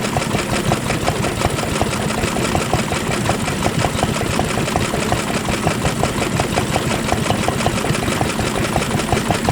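Vintage stationary engine running steadily, with an even beat of knocks about four to five a second.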